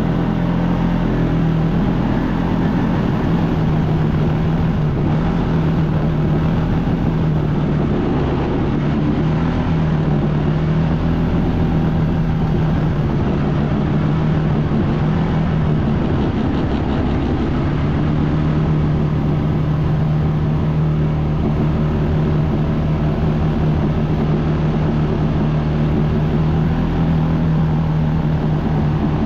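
ATV engine running steadily as the machine is ridden through snow, its pitch wavering and dipping slightly a few times.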